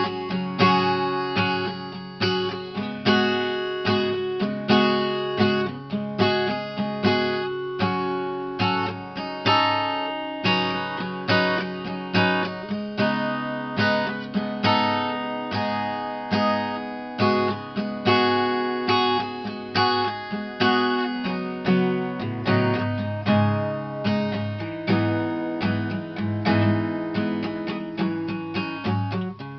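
Guitar music: a guitar strummed in a steady, even rhythm, each strum ringing and dying away, with no singing.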